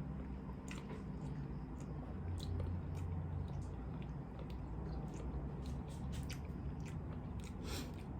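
A person chewing and biting food, with irregular small crunchy clicks over a steady low hum.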